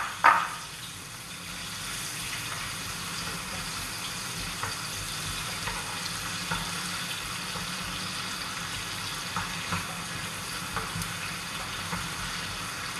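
Blended ginger and garlic with tomatoes sizzling steadily in hot oil in a frying pan while a wooden spatula stirs it, with faint knocks of the spatula on the pan now and then and two sharper knocks right at the start.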